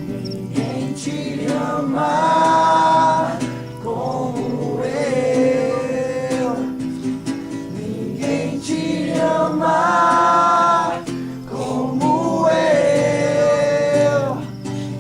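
Music: voices singing a Christian worship song in held phrases of a couple of seconds each, over instrumental accompaniment.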